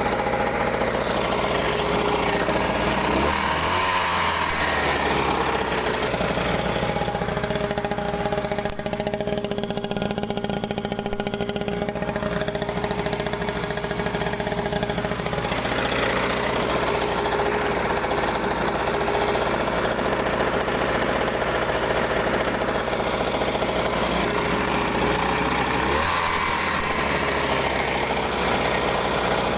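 Small engine of a homemade cart running steadily at idle, its pitch gliding briefly a few seconds in and again near the end.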